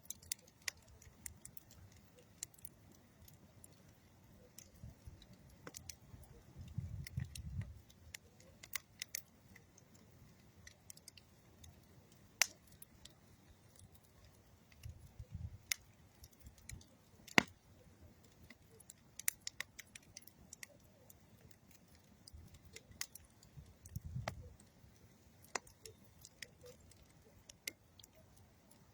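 Campfire of old railroad ties and dead wood crackling, with irregular sharp pops and snaps, two louder pops about 12 and 17 seconds in. A few soft low rumbles come through, about 7, 15 and 24 seconds in.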